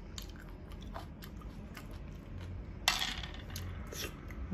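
Close-miked mukbang eating sounds: a person chewing food, with many small wet mouth clicks, and one sharper, louder noise about three seconds in.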